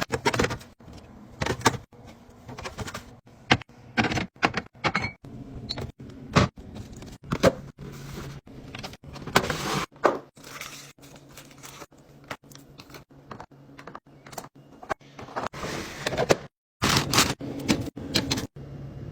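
Containers and food packaging being handled and set into a refrigerator: a busy run of clicks, knocks and rustles, with a low steady hum underneath.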